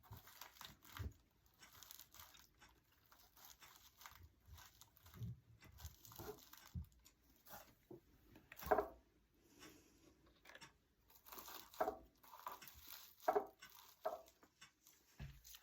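Hands handling small decorative pumpkins in dry craft hay on a toy truck: soft rustling and crinkling broken by small irregular taps and clicks, the loudest about nine seconds in and a few more near the end.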